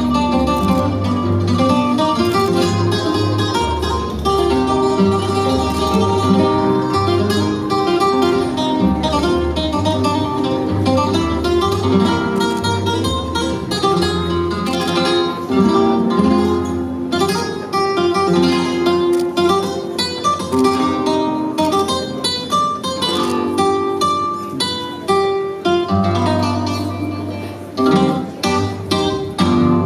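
Flamenco-style guitar music with quick plucked notes, playing continuously.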